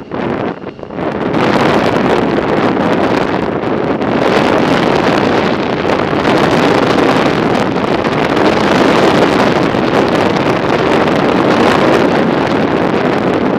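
Wind rushing over the microphone, a steady loud roar, gusty and choppy for about the first second before settling.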